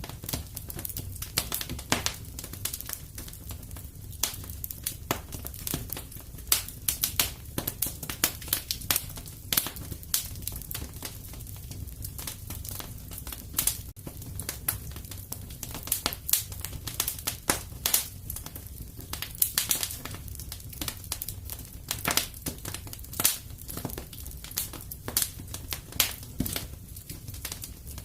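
Wood fire crackling in a fireplace: irregular snaps and pops over a low steady rumble.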